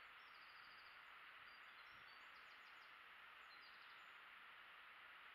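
Faint birdsong, short chirps and quick trills coming and going, over a steady hiss.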